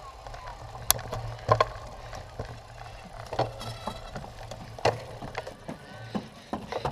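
Cyclocross bike rattling over rough ground, with irregular sharp knocks and clacks and a brief buzz about halfway through.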